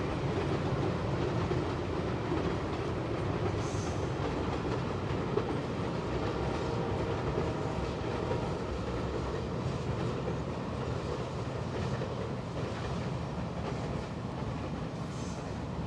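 Train rolling across a viaduct: a steady rumble with wheel clatter over the rail joints, easing slightly toward the end.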